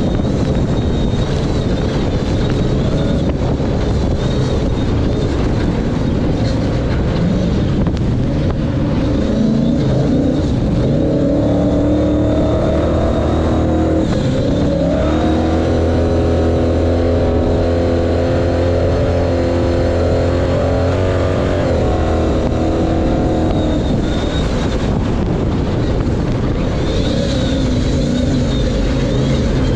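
Pre-runner Ford Ranger race truck's engine running hard from onboard, over constant rough rumble from the truck and terrain. Partway through the revs climb, hold at a steady high pitch for several seconds, then drop away.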